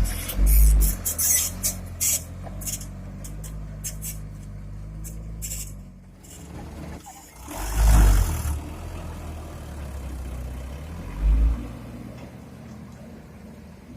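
Heavy diesel engines of an excavator and dump truck running steadily at a quarry, with a cluster of sharp clanks in the first two seconds, a loud burst of hissing noise about eight seconds in, and a heavy low thump a few seconds later.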